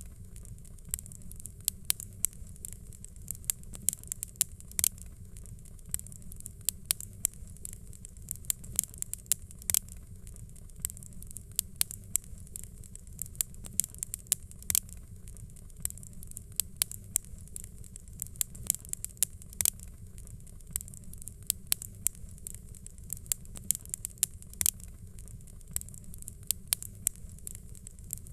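Wood fire crackling: irregular sharp pops and snaps, a few a second, over a steady low rumble and soft hiss.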